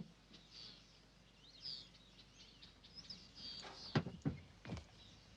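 Birds chirping and calling in a jungle ambience, many short high chirps, with a few sharp clicks or knocks about four seconds in.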